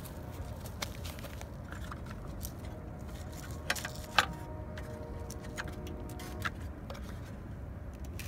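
Plastic radiator fan assembly from a 1995 Acura Integra being worked loose and pulled off the radiator, giving scattered clicks and knocks. The sharpest knock comes about four seconds in. A steady low rumble runs underneath.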